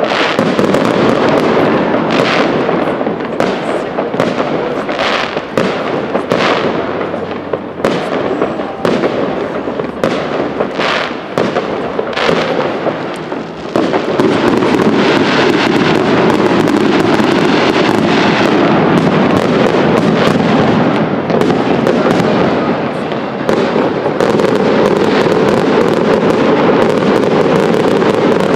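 Fireworks display: aerial shells bursting in a string of separate bangs and crackles, which merge into a dense, nearly continuous barrage from about halfway through.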